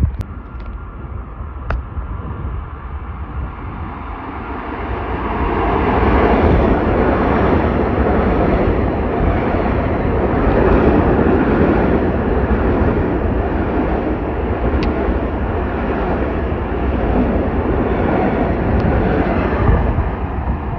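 Long Island Rail Road M7 electric multiple-unit train running through the station at speed: a rush of wheels on rail and passing cars that swells over the first several seconds, stays loud while the cars go by, and falls away right at the end.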